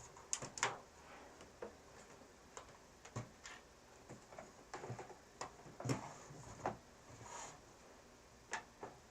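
Irregular light clicks, taps and knocks of studio gear being handled and adjusted, with a few louder knocks about half a second in, near the middle and near the end.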